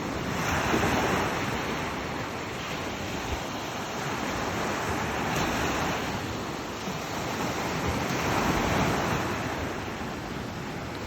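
Ocean surf breaking on a beach: a steady wash of waves that swells three times as waves break and rush in, with wind on the microphone.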